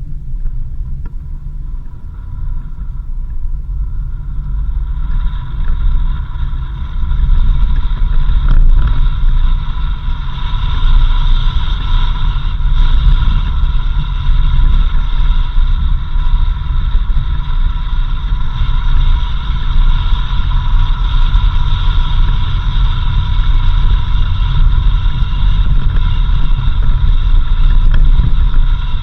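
4x4 vehicle driving, with a steady deep rumble from engine and road. About four seconds in, a steady high whine joins it, and the sound grows louder over the next few seconds before holding.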